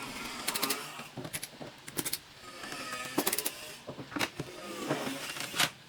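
Irregular sharp clicks and short quick runs of clicking, handling noise from work on a laptop's plastic casing.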